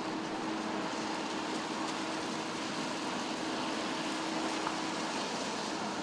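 Steady rain falling on a city street, with car tyres swishing over the wet road, and a faint low steady hum underneath.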